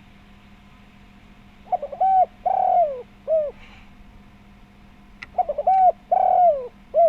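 Spotted dove (tekukur) cooing, two full phrases a few seconds apart. Each phrase opens with quick stuttered notes, then long coos that fall away at the end, then a short closing note. A faint steady hum lies underneath.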